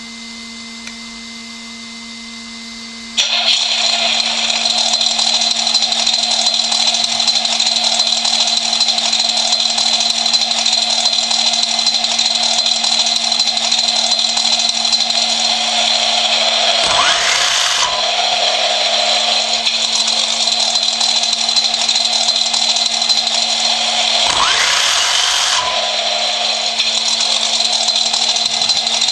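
Audi A6 V8 engine starting about three seconds in, then running with a steady high whirring hiss. It is revved briefly twice in the second half, each time a short rise in pitch.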